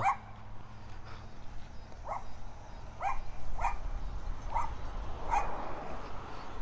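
A dog barking: five short barks spaced roughly a second apart, starting about two seconds in.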